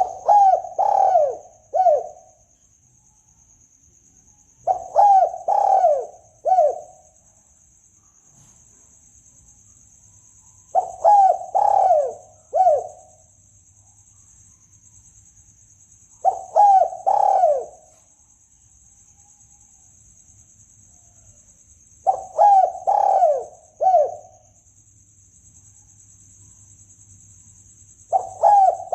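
Spotted dove (tekukur) cooing: a phrase of three or four falling coos repeated about every five to six seconds, a lure call for hunting doves.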